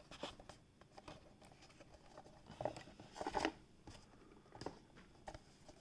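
Faint handling noise: scattered light clicks and short rustles, a few louder ones about halfway through, as small plastic building-block toy cars are picked up and moved.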